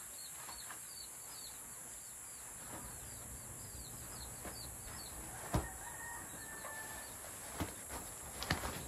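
A bird chirping quickly and repeatedly, a short falling chirp about three times a second, over a steady high hiss. Later come a few sharp knocks as bags of cement are handled, the loudest about halfway through and another near the end.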